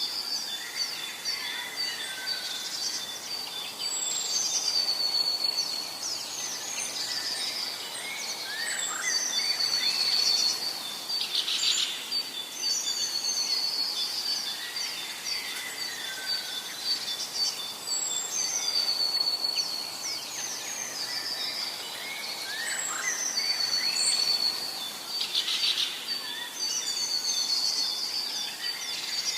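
Forest songbirds singing short, high, chirpy phrases that repeat every few seconds, over a steady high-pitched tone and a soft background hiss.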